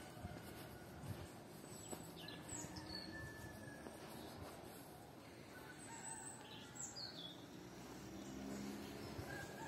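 Small birds chirping faintly over quiet rural background noise, with a few quick high chirps that slide downward and some longer thin whistled notes.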